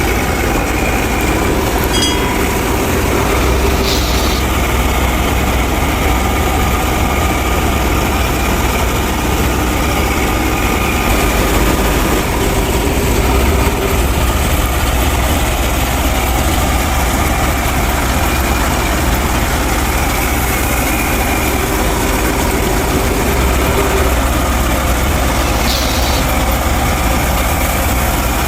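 Tractor engine running steadily while driving a wheat thresher: a continuous low drone with the machinery's noise over it, unchanging throughout.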